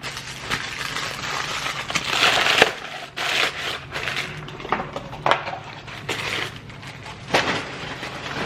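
Chewing and crunching of a double cheeseburger with chicken nuggets inside, in irregular bursts with a few sharp clicks.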